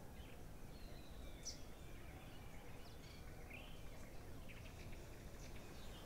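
Faint outdoor garden ambience with scattered short bird chirps and thin whistles from small birds, including a short rising whistle about three and a half seconds in.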